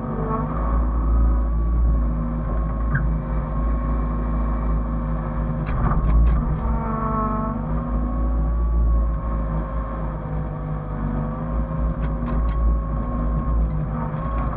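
Hyundai excavator's diesel engine running steadily, with a whine that sags and recovers in pitch as it works. There are a few short knocks about six and twelve seconds in.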